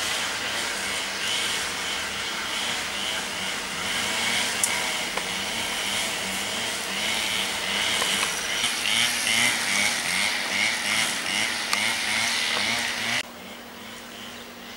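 Freight train of tank wagons rolling past: steady rumble and rail noise, with a regular beat of wheel clatter in the second half. It cuts off suddenly near the end.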